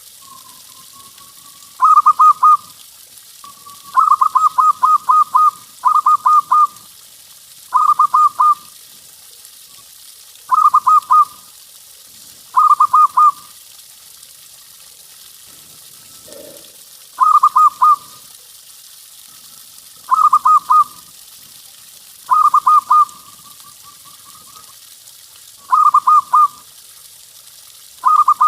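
Zebra dove (perkutut) cooing: short phrases of rapid staccato coos, repeated about every two seconds. A few phrases start or trail off with a softer drawn-out note.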